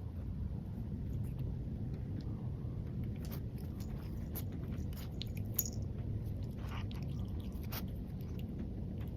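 Cat chewing and biting on cat's nettle (Acalypha indica), with scattered crunchy bites over a steady low background noise.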